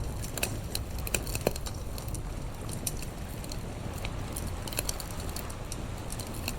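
Wood fire crackling, with irregular sharp pops and snaps several times a second over a low steady rumble.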